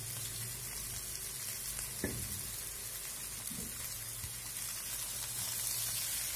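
Spiced potatoes and taro pieces sizzling in a nonstick kadhai, a steady frying hiss over a low hum, with a couple of faint knocks about two and three and a half seconds in.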